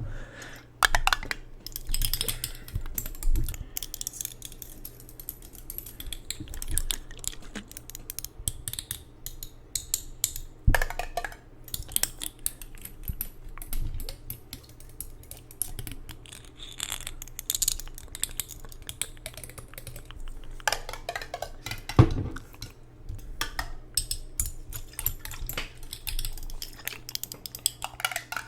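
Rapid tapping and clinking on a jar of water: a dense run of small hard clicks with a few louder knocks.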